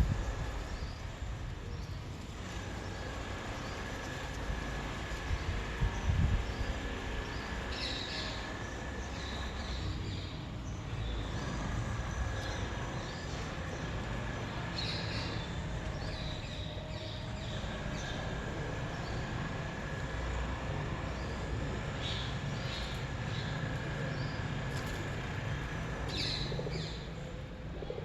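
Outdoor backyard ambience: birds chirping in short bursts every few seconds over a steady background hiss and low rumble, with a couple of low thumps near the start and about six seconds in.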